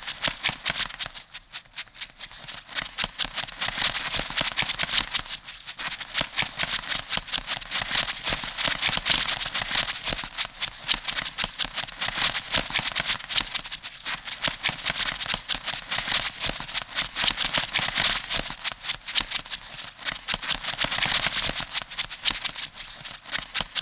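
Crab sound effect: a dense run of rapid clicking, like a rattle, that swells and thins unevenly, with short lulls early on.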